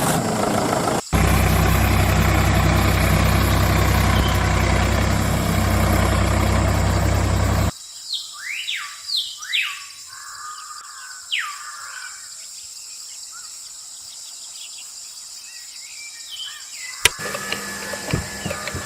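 A steady mechanical hum with hiss that cuts off suddenly about eight seconds in, followed by birds chirping: several short, downward-sliding calls over a quiet background. A sharp click comes near the end.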